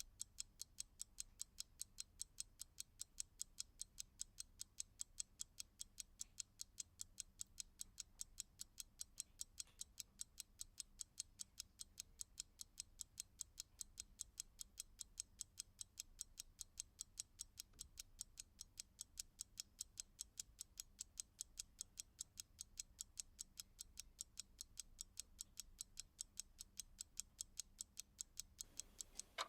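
Clock ticking steadily: fast, evenly spaced crisp ticks, several per second.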